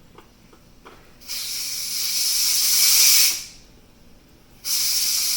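Pressure cooker venting steam through its release valve during pressure release: two loud bursts of hissing, one about a second in lasting about two seconds, the second starting near the end.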